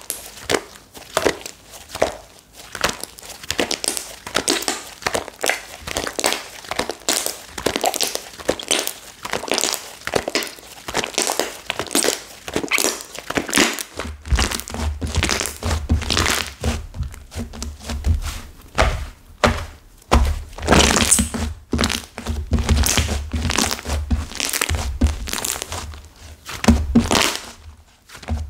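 Flora slime (slime mixed with clay) being squeezed and kneaded by hand, giving rapid, irregular crackling and crunching snaps with dull thunks. The clay in it has hardened, which makes it crunch.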